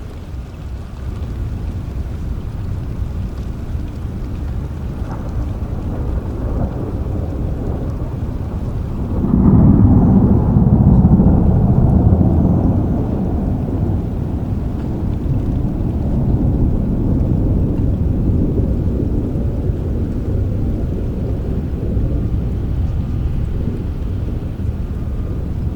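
Steady rain with a roll of thunder: the low rumble swells suddenly about a third of the way in, stays loudest for a few seconds, then slowly rolls away under the rain.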